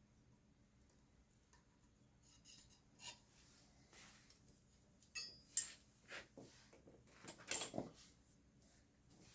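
Metal tools and parts clinking and scraping as they are handled, a few scattered sharp clinks in the second half.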